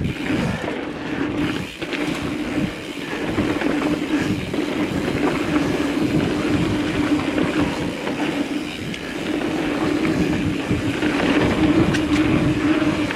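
Mountain bike riding on a dirt trail: tyre noise and rattling clicks from the bike, over a steady hum.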